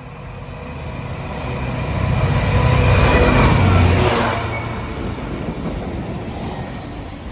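A train passing by: its rumble and rail noise build to a peak about three to four seconds in, then fade away.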